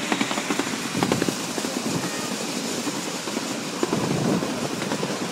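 Miniature ride-on steam train running along its track: a steady mechanical rumble with a rapid, irregular clatter of wheel clicks.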